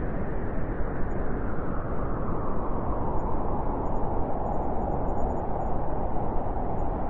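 Blizzard wind: a steady rush of storm wind with a deep rumble underneath.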